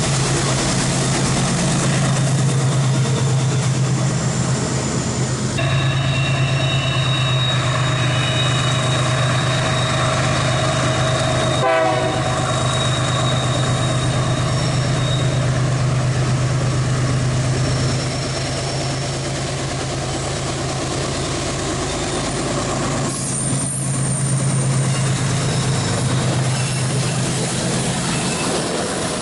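Diesel freight train running, its locomotive engine giving a steady low drone over rail and wagon noise, with thin high tones for several seconds partway through.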